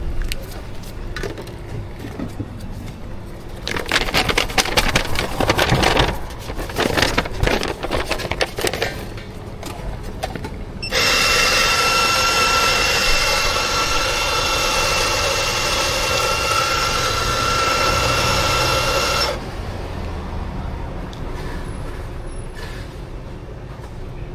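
Espresso-bar work: several seconds of dense clattering and rattling. Then a loud, steady hissing whine with a whistling tone in it runs for about eight seconds and cuts off abruptly.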